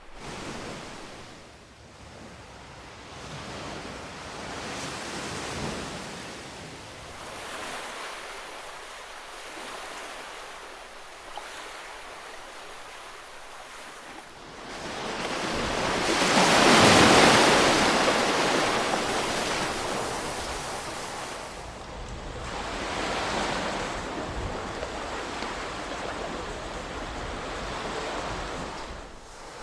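Ocean waves washing onto a shore: a wide hiss of surf that swells and ebbs every few seconds, with the biggest wave breaking about halfway through.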